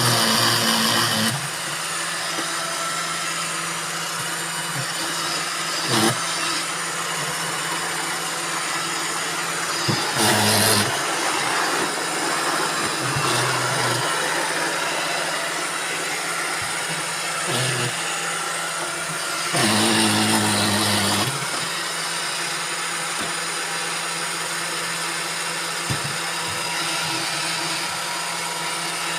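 Several robot vacuum cleaners running at once: a steady whirring of motors and brushes, with louder surges at the start, about ten seconds in and about twenty seconds in, and a sharp knock about six seconds in.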